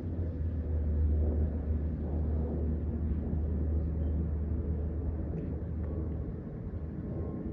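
Airbus A350-1000 jet airliner's Rolls-Royce Trent XWB engines at takeoff power: a steady deep rumble that eases a little near the end.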